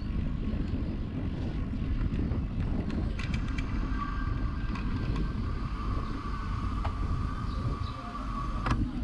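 Low, steady rumble of wind buffeting the microphone and road noise while riding, with a steady high-pitched tone starting about three seconds in and stopping just before the end, and a few sharp clicks.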